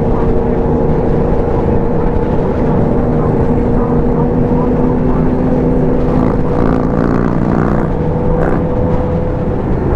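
Motorcycle engine running steadily at a constant pitch while riding.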